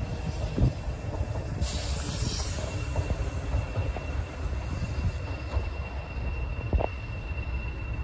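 A train running: a steady low rumble with a thin high whine over it, a short hiss about one and a half seconds in, and a single knock near the end.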